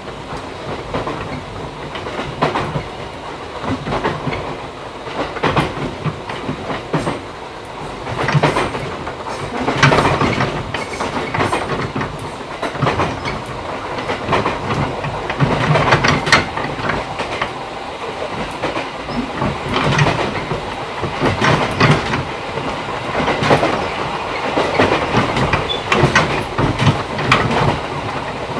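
Running noise inside a JR 211 series electric motor car on the move: wheels clattering irregularly over rail joints over a steady rumble of the car and its DC traction motors, with louder bursts here and there.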